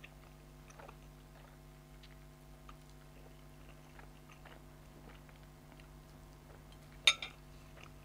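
A person quietly chewing a mouthful of Samyang chicken carbonara instant noodles, with faint small mouth clicks over a steady low electrical hum. A short, sharp click about seven seconds in is the loudest sound.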